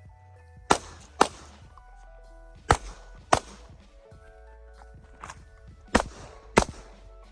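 Glock 19 pistol firing three quick pairs of shots, each pair about half a second apart, with a fainter report between the second and third pairs. Background music with held notes plays underneath.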